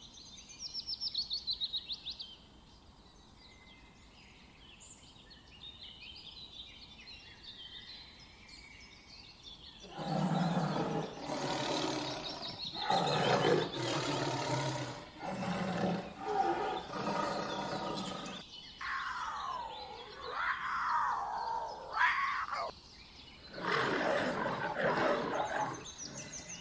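Small birds trilling and chirping, then a large animal's loud, coarse roaring calls in a series of bursts, broken by a few seconds of calls that slide up and down in pitch.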